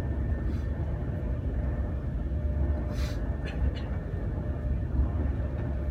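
Steady low rumble of a Class 390 Pendolino electric train running, heard inside the passenger carriage. A brief hiss comes about three seconds in, followed by a couple of faint clicks.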